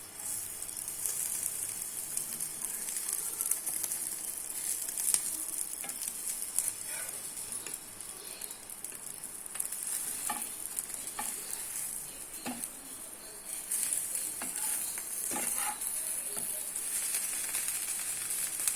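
Egg-dipped bread omelette sizzling in oil on a hot tawa, a steady high hiss with a few short knocks of the spatula.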